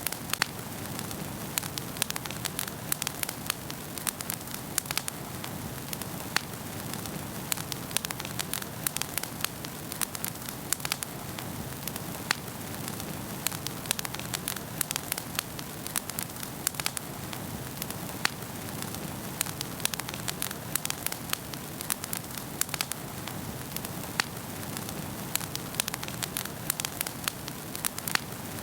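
Wood fire burning in a fireplace, crackling with frequent, irregular sharp pops over a steady soft hiss.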